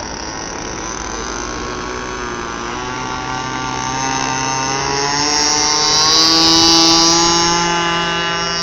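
DLE-20 single-cylinder two-stroke petrol engine of a radio-controlled model Cessna 182, running at speed. It climbs in pitch and grows louder to a peak about seven seconds in, then fades slightly.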